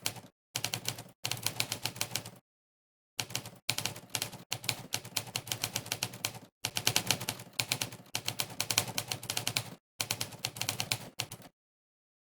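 Typing-test typewriter sound effect: a sampled typewriter key strike played on each keypress. The strikes come in fast runs of several a second with short pauses between them, and stop about eleven and a half seconds in.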